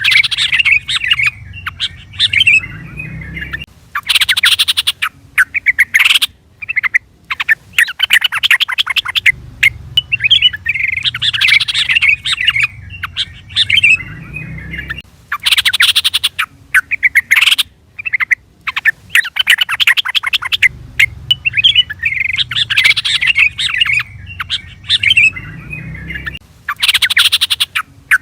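Yellow-vented bulbul (trucukan) calling: bubbly chattering phrases alternate with short, rapid, harsh trills. The same sequence repeats about every 11 to 12 seconds, as a looped call recording.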